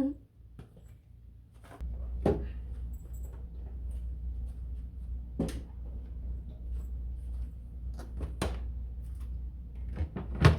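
Condiment bottles and jars being handled and set down, with a few scattered knocks, the loudest near the end. Under them a low steady hum comes on about two seconds in.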